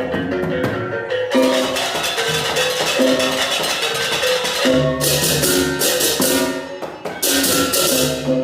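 Balinese baleganjur gamelan playing: bronze gongs and gong-chimes strike an interlocking melody over drumming. In the second half come loud bursts of clashing cengceng hand cymbals.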